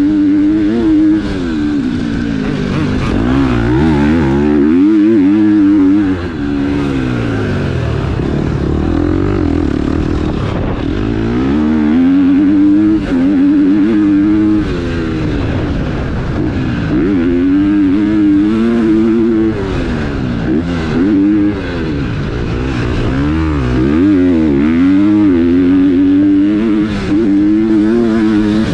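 KTM four-stroke motocross bike engine running hard on a track, its revs climbing and dropping over and over as the throttle is opened and chopped through the gears, with brief dips about 6 and 21 seconds in.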